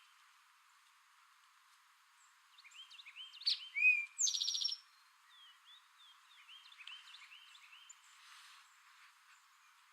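Eastern towhee singing its "drink-your-tea" song once, about three and a half seconds in: a couple of quick notes ending in a fast trill. Other birds chirp faintly in the background.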